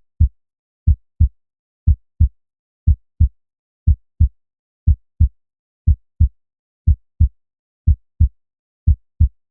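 Heartbeat sound effect: pairs of short, low lub-dub thumps, about one pair a second, in a steady rhythm with silence between them.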